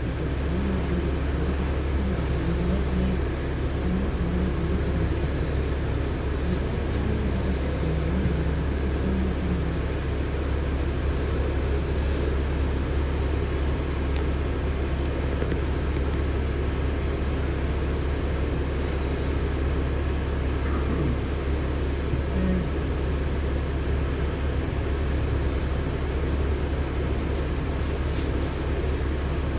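Steady low rumble inside a LiAZ-6213.65 articulated city bus, its engine and running gear droning evenly throughout.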